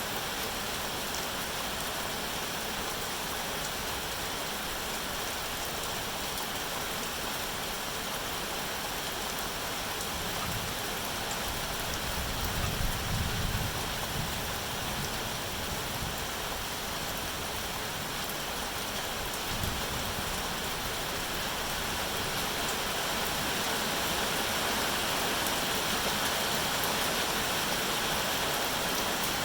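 Steady rain falling, an even hiss, with a brief low rumble swelling near the middle.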